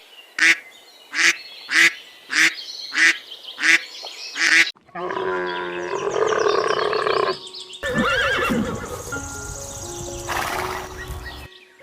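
Animal calls cut together: a run of seven short, evenly spaced quack-like calls, then longer pitched calls, with abrupt changes between them.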